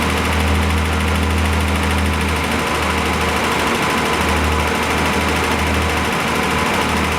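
BMW 7 Series engine running steadily, with a mechanical clatter from the timing chain, whose tensioner is worn out to its full extension.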